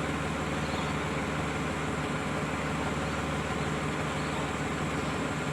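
Ford Territory engine idling steadily, running to give the brake booster vacuum so pedal pressure can force a seized caliper piston out of its bore.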